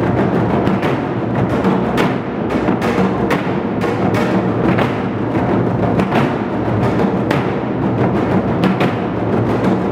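Moduk-buk, a set of Korean barrel drums (buk) of different sizes, played together in a dense, continuous run of drum strokes with no break.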